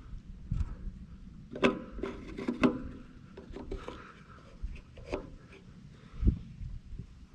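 Scattered knocks and clatter with rubbing and scraping between them, as of objects being handled and set down, over a low rumble; the sharpest knocks come about one and a half and two and a half seconds in, with a dull thump near the end.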